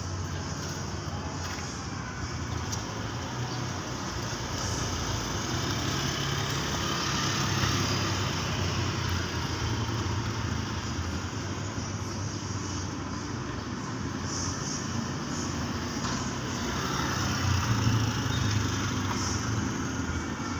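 Heavy rain pouring steadily, a dense hiss with a low rumble underneath.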